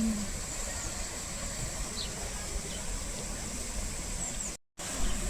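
Steady outdoor background noise with a hiss and a low rumble; the sound drops out completely for a moment near the end.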